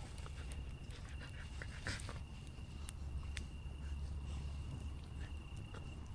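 A dog panting, with scattered light clicks.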